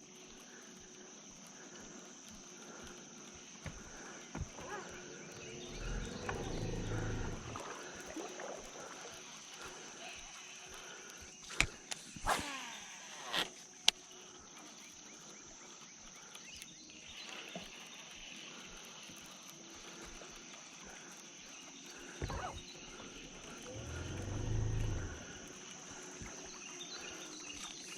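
Steady high-pitched drone of insects, with a few sharp clicks in the middle and two brief low rushing swells, one about six seconds in and one near the end.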